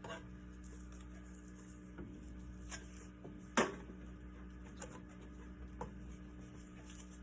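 Scattered small knocks and clicks of objects being handled, with one sharper knock about three and a half seconds in, over a steady low hum.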